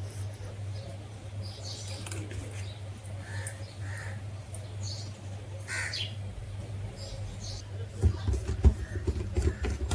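Steady low electrical hum with scattered short high chirps and ticks. About eight seconds in, a run of louder, irregular low knocks and clatter starts.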